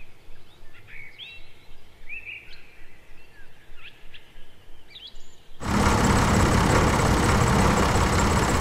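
Small birds chirping faintly in the background. About two-thirds of the way in, a loud, steady noise cuts in suddenly and holds.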